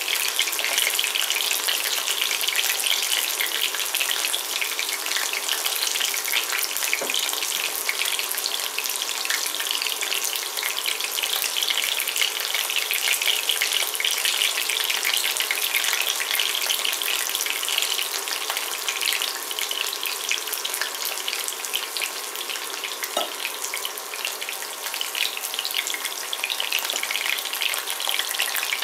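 Breaded chicken nuggets shallow-frying in hot vegetable oil in a ceramic pan: a steady, dense sizzle and crackle.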